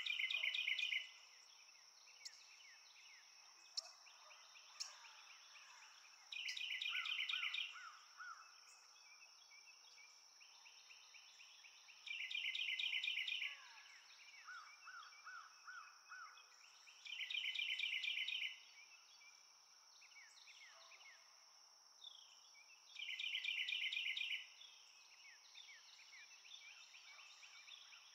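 Outdoor nature ambience: a songbird repeats a loud, rapid trilled phrase about every five to six seconds. Between the phrases come softer chirps from other birds, over a steady high insect drone.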